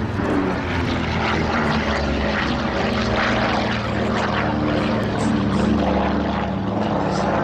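Lockheed P-38 Lightning's twin Allison V12 piston engines running steadily in flight.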